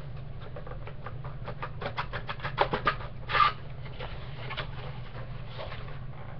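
Crackling and rustling of a trading-card box's packaging being handled and opened: a run of quick crackles, loudest in a burst about three and a half seconds in, over a steady low hum.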